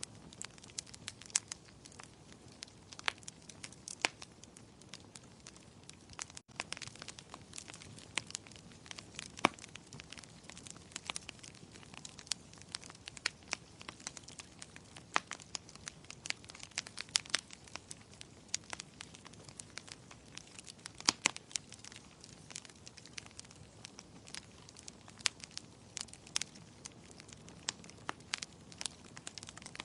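Wood fire in a fireplace crackling: irregular sharp pops and snaps, several a second, over a faint steady hiss of the flames, with a momentary gap about six and a half seconds in.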